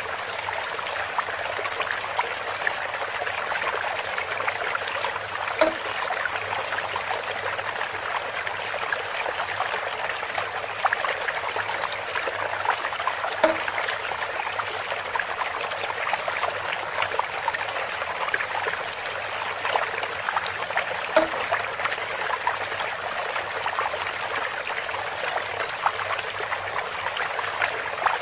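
Water running steadily through a bamboo spout, an even trickling flow, with a short knock about every eight seconds, three times.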